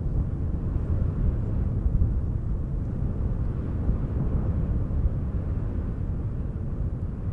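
Wind buffeting the microphone: a steady low rumble that flutters up and down in strength.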